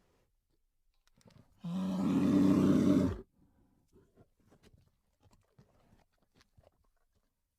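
A bear roaring once, a gritty, pitched roar of about a second and a half that cuts off abruptly. Faint scattered clicks follow.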